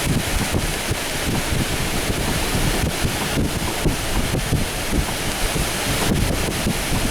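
Strong, gusty thunderstorm wind of around 50 mph buffeting the microphone. It makes a continuous rushing hiss over an uneven low rumble, the sound of gusts strong enough to tear leaves and small branches off the trees.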